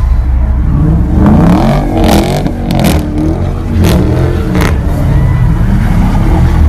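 Car engine revving hard, its pitch rising and falling again and again, with several sharp cracks in the middle.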